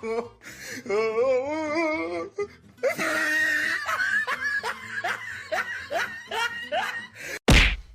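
A person laughing hard in a run of short, quick, falling bursts. There is a sudden loud thump near the end.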